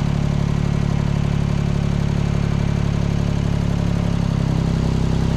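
An engine idling steadily, with a slight change in its note about four seconds in.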